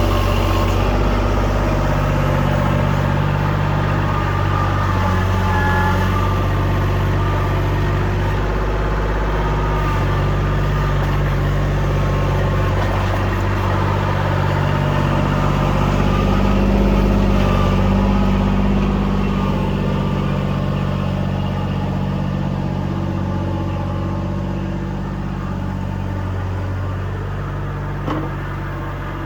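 Kubota L2501 compact tractor's diesel engine running steadily, its speed shifting up and down a few times.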